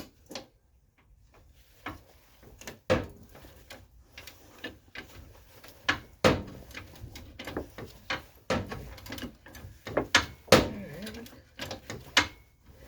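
Hand tools working a seized suspension fastener: a ratchet and wrench clicking and clanking against steel, with a handful of sharp metal-on-metal knocks spread through.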